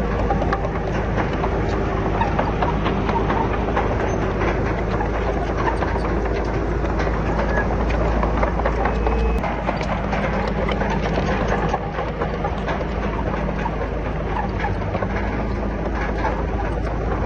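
Bulldozer's diesel engine running steadily, with frequent clanks and rattles of steel and rock. The deep engine note drops about nine seconds in.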